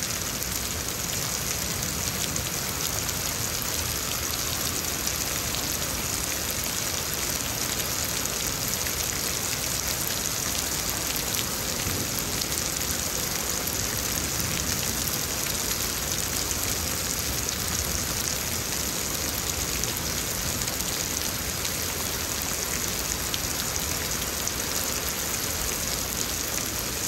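Heavy rain pouring steadily in a thunderstorm, with small hail mixed in.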